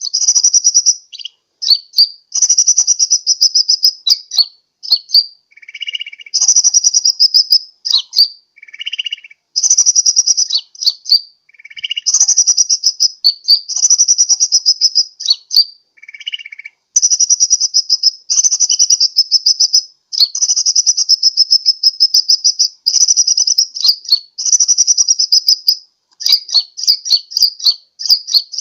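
Sunbird song played as a lure call: rapid high-pitched trilled phrases, each about one to two seconds long, repeated over and over with short gaps, with an occasional lower note between phrases.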